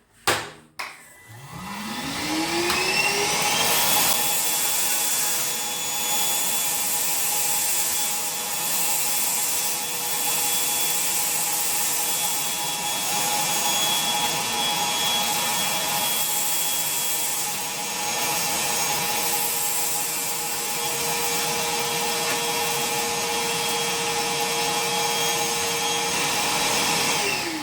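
Parkside PWDA 20 Li A2 cordless 20 V wet-and-dry vacuum cleaner starting with a click, its motor whine rising over the first few seconds, then running steadily with a loud rush of air while it vacuums. Near the end it is switched off and the whine falls away.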